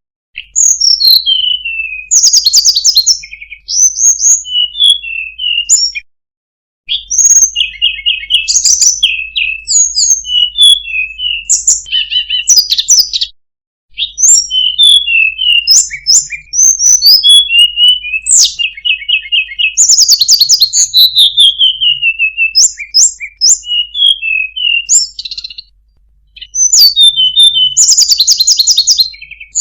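Tledekan gunung (snowy-browed flycatcher) singing: quick, high, varied chirping phrases with fast descending trills, repeated in bursts with a few short breaks.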